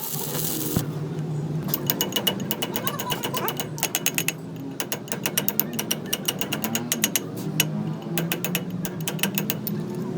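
Ratchet wrench clicking in quick runs of a second or two with short pauses between, as bolts are worked on a heavy-duty truck's gearbox.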